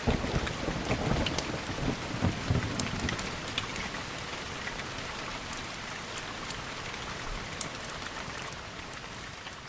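Steady rain with a low thunder rumble that breaks in suddenly at the start and rolls away over about three seconds. The rain then runs on evenly and begins to fade near the end.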